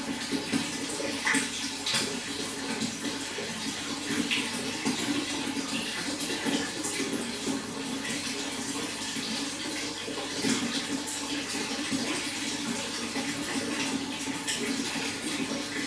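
Running water flowing steadily, with frequent small splashes.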